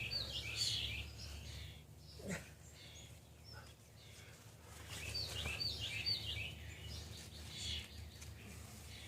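A songbird singing two quick phrases of rapid, falling chirps, one at the start and one about five seconds in, over a steady low outdoor rumble. A single sharp click comes about two seconds in.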